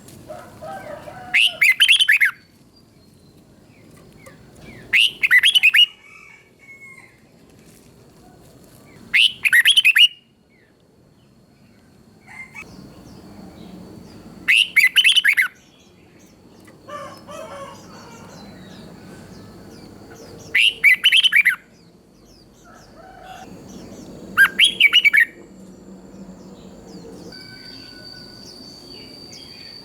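Red-whiskered bulbul singing, repeating a short, bright, rapid song phrase about every four to five seconds, six times. A faint steady high whine runs underneath and grows stronger near the end.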